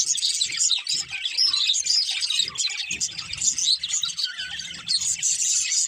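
A flock of budgerigars chirping and warbling at once, a dense, continuous chatter of high, quick notes.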